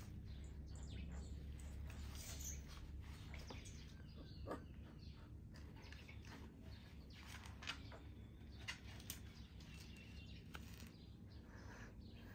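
Faint, scattered bird chirps and a few short ticks over a low steady hum.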